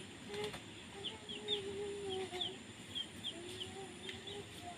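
Chickens calling in wavering drawn-out notes, with small birds chirping in many short high notes.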